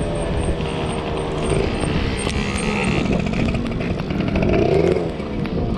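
Motorcycle engine running while riding, its pitch drifting up and down, over wind and road noise.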